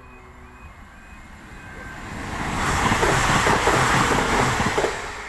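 A train passing over a level crossing: a rushing rail noise builds up, stays loud for about two seconds, then falls away sharply. Early on, the crossing's repeating two-tone warning alarm is faintly audible.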